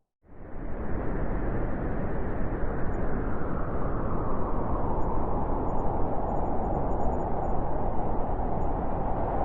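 Blizzard wind blowing: a steady rushing noise that fades in over about a second after a brief silence, with a higher hiss growing stronger in the second half.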